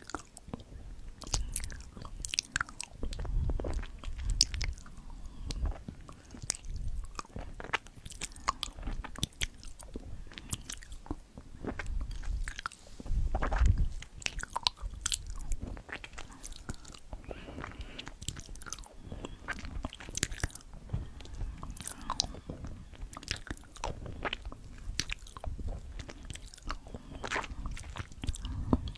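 Close-miked chewing ASMR: a person biting and chewing crunchy food, with many irregular sharp crunches and heavier bites now and then.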